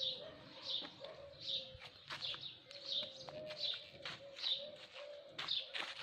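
A bird calling over and over, a short high note about every three-quarters of a second, over a low steady tone and a few faint clicks.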